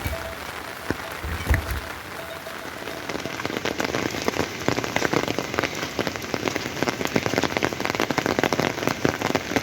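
Heavy rain falling, a dense patter of drops striking a surface that grows heavier about three seconds in, with a few dull low thumps near the start.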